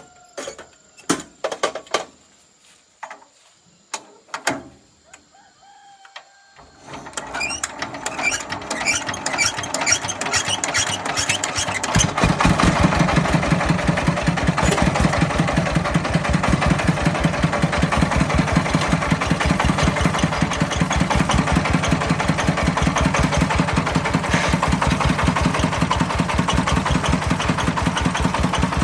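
A few sharp metallic clicks and knocks, then about seven seconds in a farm vehicle's engine starts and picks up speed, settling at about twelve seconds into a steady, fast, even chug.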